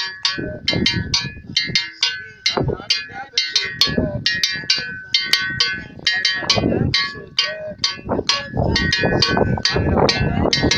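A metal bell, cowbell-like, struck rapidly and repeatedly, several strikes a second, each stroke ringing on.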